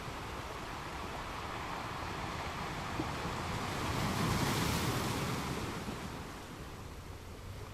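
Ocean waves on a beach: a steady wash of surf, with one wave swelling to a peak about four to five seconds in and then drawing back.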